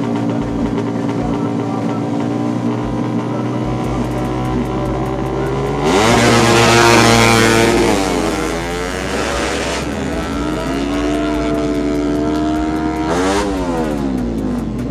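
Yamaha MX King drag bike's four-stroke single, bored out to 180cc, holds revs steadily on the start line, then launches with a sharp climb in pitch, loudest for about two seconds. The pitch then falls away in steps as it shifts and pulls off down the strip, and there is another quick rise and fall in pitch near the end.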